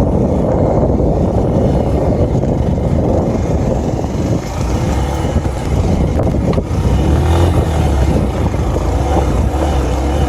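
A small motorcycle running on the move, its engine rumble mixed with steady wind rush over the microphone; the low rumble grows stronger a little past halfway.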